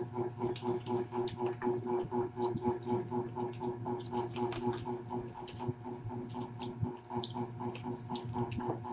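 Close-up chewing and crunching of fried chicken, with many small sharp clicks from mouths and fingers on the crisp coating. Under them is a steady background hum made of a few level tones that pulse quickly.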